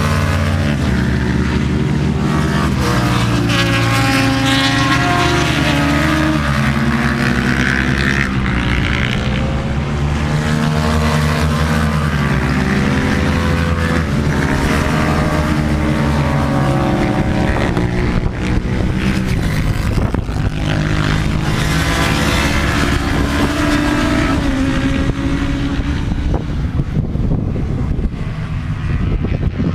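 Racing motorcycle engines running hard, the pitch climbing and dropping again and again as the riders work through the gears.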